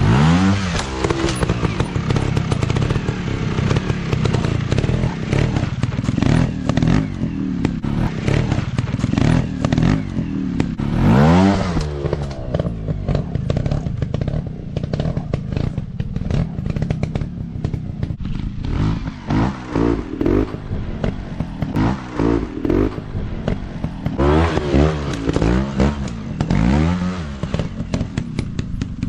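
Dirt bike engine revving in repeated rising and falling blips, with one big rev about a third of the way in and a quick run of short revs near the end.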